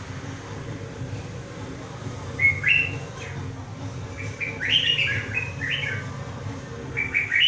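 Red-whiskered bulbul singing three short phrases of quick, gliding whistled notes, a second or two apart, over a steady low hum.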